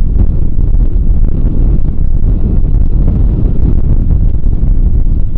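Strong wind buffeting the microphone: a loud low rumble that flutters unevenly.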